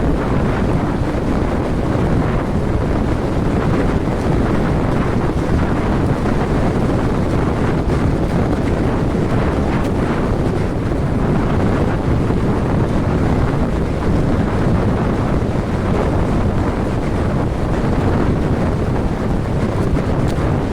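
Steady, loud wind rush buffeting the microphone while riding a snowmobile, with no distinct engine note above it.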